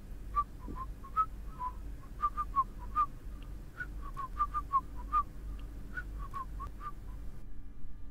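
Birds chirping: a quick, irregular string of short chirps that stops abruptly about seven seconds in.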